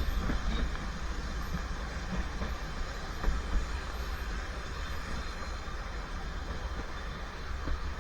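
Narrow-gauge Welsh Highland Railway train running along the track: a steady low rumble of wheels on rails, with two sharp knocks a little over three seconds in.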